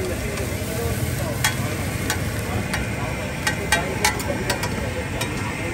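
Mutton liver frying on a tawa, a steady sizzle with a metal spatula clinking against the griddle about eight times, most of them in the second half.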